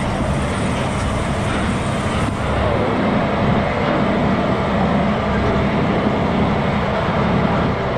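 Logging truck on the road: steady engine and road noise with a strong low rumble and no sudden changes.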